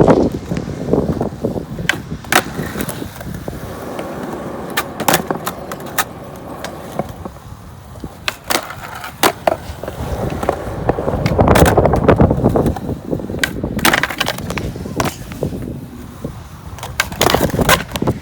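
Skateboard wheels rolling over concrete, swelling and fading, with many sharp clacks and knocks of the board hitting the ground. The rolling is loudest in a long stretch about two-thirds of the way through.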